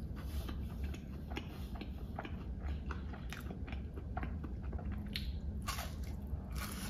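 Close-up chewing of battered, deep-fried giant squid, with many small crunches throughout and a couple of louder bites near the end.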